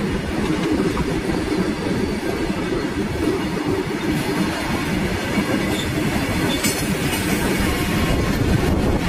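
Covered box wagons of a freight train rolling past at close range: a steady, loud noise of steel wheels running on the rails.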